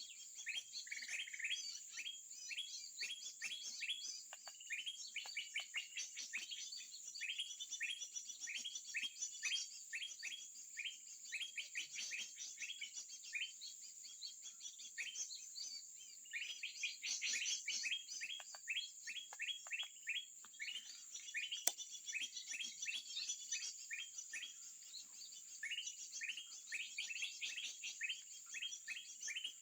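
Songbirds chirping in quick runs of short, sharp notes, over a steady high-pitched hum. The chirping thins out briefly midway, and there is a single sharp click a little past twenty seconds.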